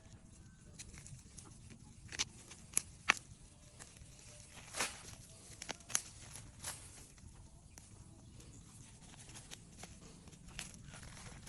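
Irregular crisp snaps and clicks with faint rustling, as of taro plants being handled and their stalks broken during harvesting; the sharpest come around a few seconds in.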